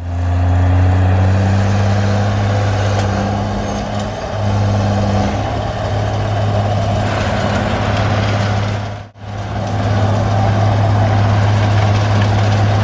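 Komatsu D20P bulldozer's diesel engine running steadily, with a deep even drone. The sound cuts out for an instant about nine seconds in and resumes at once.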